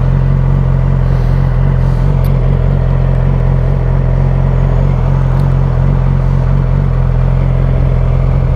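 Motorcycle engine running steadily at an unchanging engine speed, a deep even hum.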